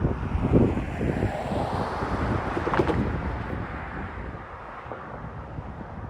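Wind buffeting the microphone in gusts, loudest in the first second. A broad noise from a passing vehicle swells to a peak about halfway through and then fades away.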